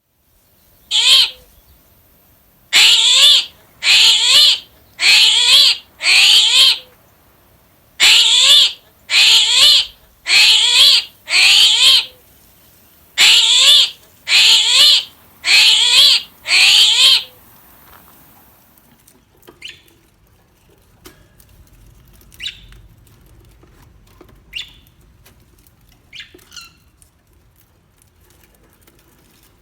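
A large bird giving loud, harsh calls of under a second each. The first comes alone about a second in, then three runs of four follow at about one a second. In the second half only faint, short chirps remain.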